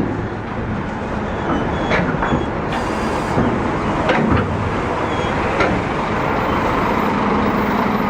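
Scania K360 coach's diesel engine running at low speed, with a few short high squeaks about two and four seconds in; a steady low hum sets in near the end.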